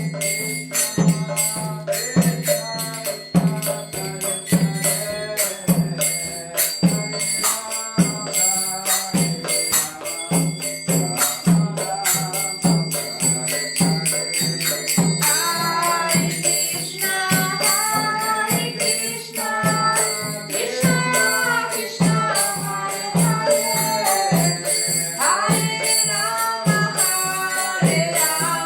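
Devotional kirtan music: voices singing a chant over a steady drum beat, about two strokes a second, with jingling hand percussion.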